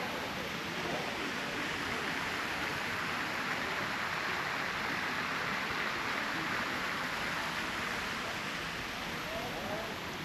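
Steady rush of fast-flowing river water, an even hiss that swells a little in the middle.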